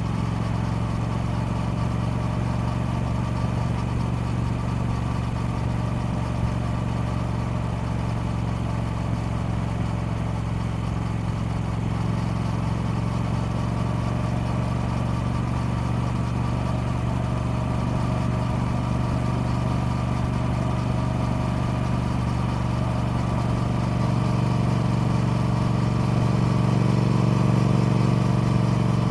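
Triumph Speed Twin's parallel-twin engine running steadily, growing louder and slightly higher in pitch over the last few seconds.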